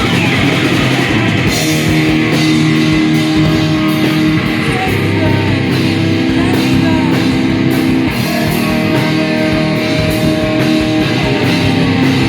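Heavy metal band playing: distorted electric guitars holding chords over a pounding drum kit.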